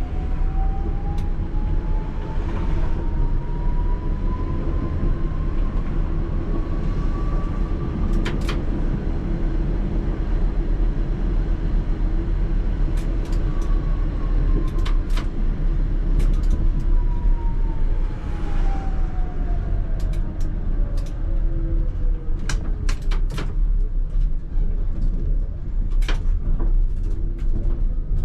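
Tatra T3R tram under way, its traction drive whining upward in pitch as it picks up speed, then whining downward as it slows, over a steady rumble of wheels on rail. Sharp clicks and clacks from the track and car body come through, most of them in the second half.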